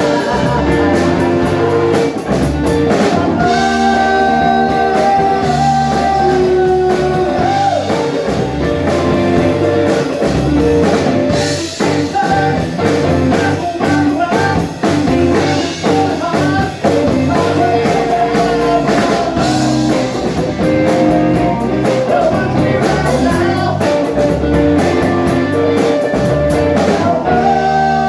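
Live rock band playing: electric guitar and drum kit over a steady groove, with singing.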